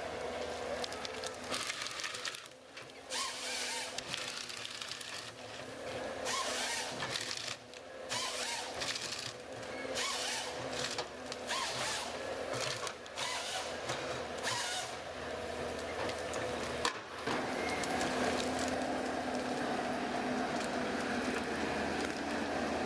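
A woodworking machine running with a steady hum, broken by repeated short bursts of noisy cutting through wood, which come mostly in the first two thirds.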